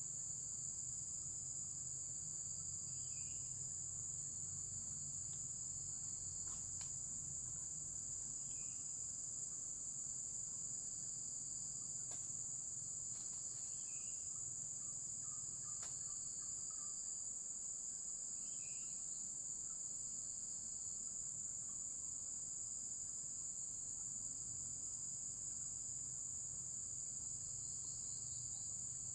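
A steady, unbroken high-pitched chorus of insects, with a few faint short chirps and light clicks scattered through it.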